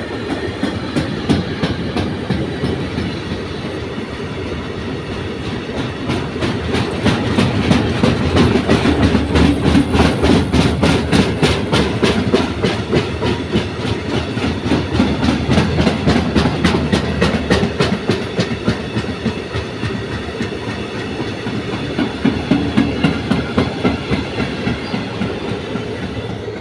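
Freight train of tank wagons rolling past, wheels clicking over the rail joints in a steady clickety-clack that is loudest in the middle and eases off toward the end.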